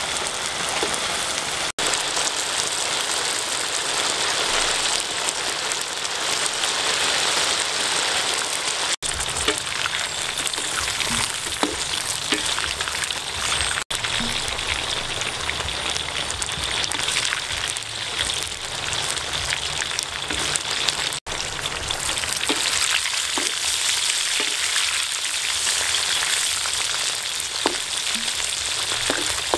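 Giant water bugs stir-frying in hot oil in a wok, a steady sizzle with small ticks and scrapes from the wooden spatula. The sound breaks off for a split second four times.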